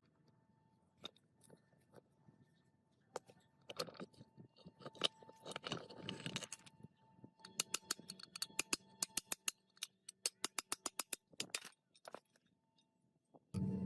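A series of light clicks and taps from hand work, with a quick, even run of clicks, several a second, in the second half.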